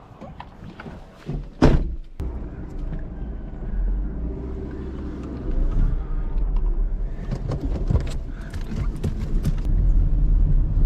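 Vehicle engine running steadily, after a sharp knock about one and a half seconds in.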